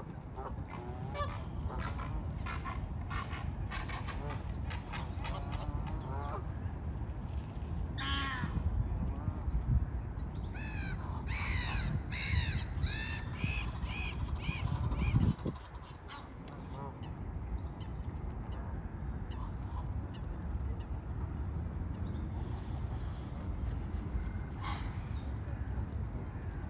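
Birds calling: harsh, honking calls given in rapid series, loudest about halfway through, over a steady low rumble. There is one brief low thump just after the loudest calls.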